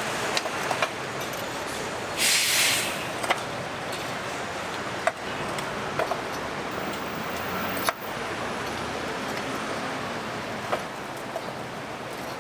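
Steady kitchen background noise with scattered light clicks and knocks of utensils. A short hiss comes about two seconds in.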